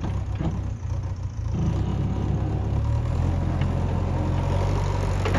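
Heavy diesel engine running steadily, its low note picking up and getting stronger about a second and a half in.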